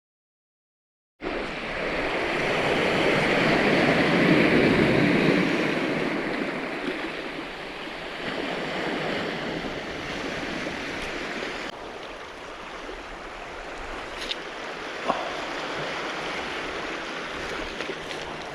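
Sea waves washing onto a cobble-stone beach, beginning after a second of silence, swelling to a peak about four seconds in and then easing into a steady wash, with a few small clicks later on.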